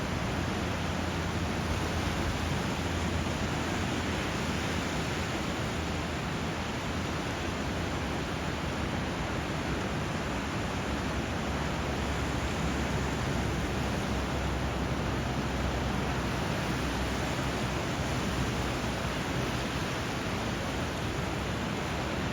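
Steady rushing water where a river flows into the sea, an even constant hiss with no distinct wave breaks.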